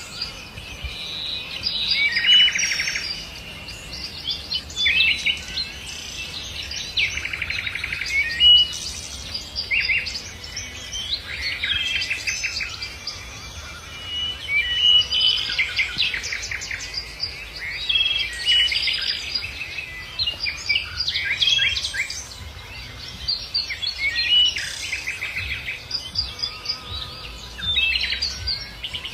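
Several songbirds singing at once, a continuous chorus of chirps, whistles and rapid trills.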